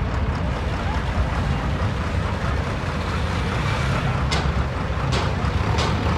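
Tractor engine running steadily on the move, a low hum with road and wind noise. From about two-thirds of the way in, sharp clicks repeat a little more often than once a second.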